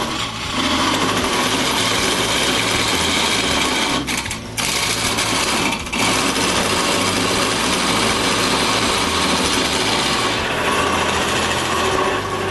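Wood lathe running while a chisel cuts into a spinning block of glued pine, a dense scraping and rumbling noise with brief breaks about 4 and 6 seconds in as the tool comes off the wood.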